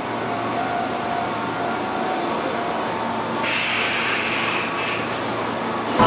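Kintetsu electric commuter train rolling slowly alongside the platform with a steady running hum as it pulls in. About three and a half seconds in, a louder hiss starts with a high, slowly falling squeal as the train comes to a stop.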